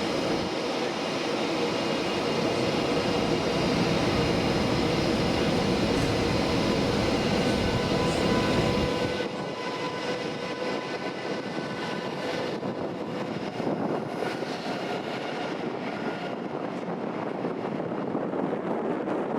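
Electric locomotive-hauled passenger train running past: a rumble with a steady whine from the locomotive. About nine seconds in, the deep rumble falls away and the sound turns quieter and thinner.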